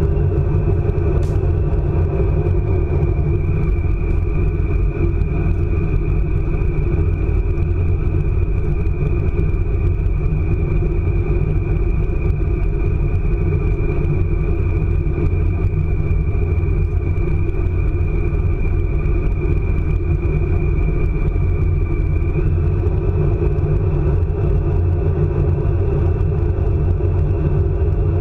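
ICE high-speed train running at speed: a steady low rumble with a thin high whine held over it, the whine shifting slightly in pitch about 22 seconds in.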